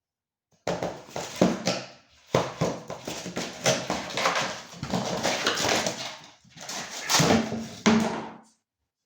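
Two house cats fighting, with growls and hisses in three loud spells that stop shortly before the end.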